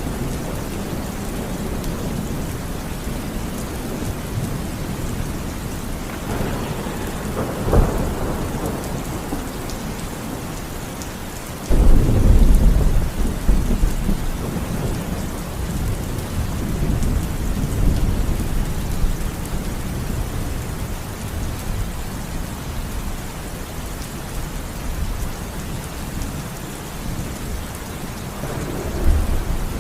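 Steady heavy rain with thunder. A sharp crack comes about 8 seconds in, and a sudden loud clap at about 12 seconds rolls into a long low rumble. Another rumble builds near the end.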